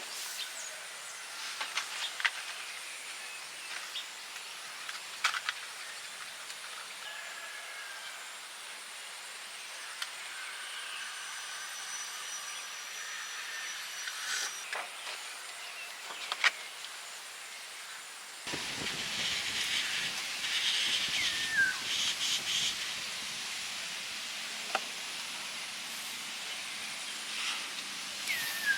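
Steady hiss of rain falling, with scattered clicks and taps. About two-thirds of the way through, the sound abruptly becomes louder and fuller.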